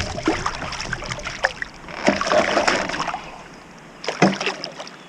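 Knocks, clicks and rustling of handling in a kayak, with a denser rustle about two seconds in and a sharper knock a little after four seconds.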